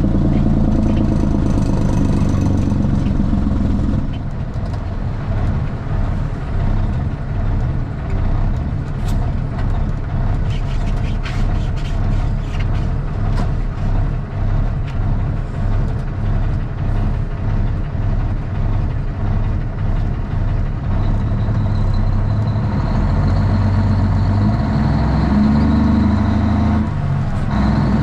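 Straight-piped Cummins ISX diesel in a Kenworth T800 running under way. It is loud at first, eases off about four seconds in, and builds again over the last several seconds with a high whine.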